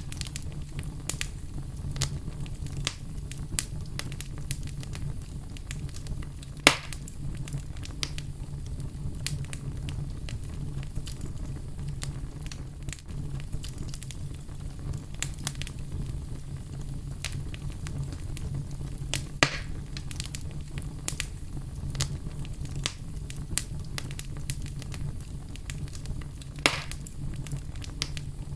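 Fire crackling: frequent small crackles over a steady low rumble, with three louder pops, about seven, nineteen and twenty-seven seconds in.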